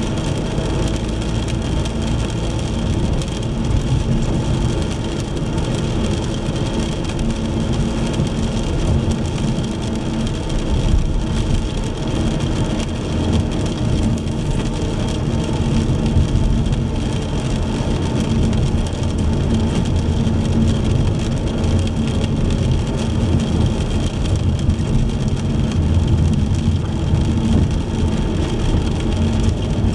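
A car driving in the rain: a steady low rumble of engine and tyres, with rain hitting the car.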